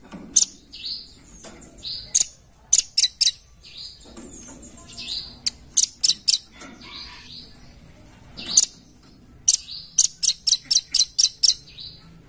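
Velvet-fronted nuthatch calling: sharp, high chirps given in quick runs of three to eight notes, with single down-slurred notes between, and a long fast run near the end.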